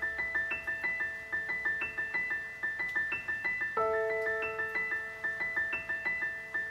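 Solo keyboard with a piano sound playing quick, evenly repeated high notes over held lower notes, with a new chord entering about four seconds in. This is the quiet instrumental ending of the song, with no singing.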